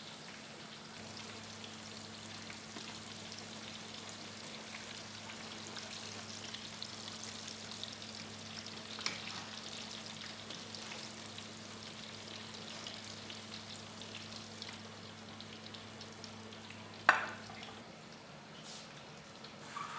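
Food sizzling and crackling as it fries in hot oil in a pan, over a steady low hum. A sharp clack about 17 seconds in is the loudest sound.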